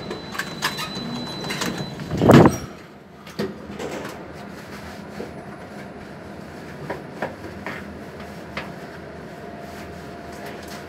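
ThyssenKrupp passenger lift: clicks and a thud as its sliding doors shut about two seconds in. Then a steady hum as the lift runs.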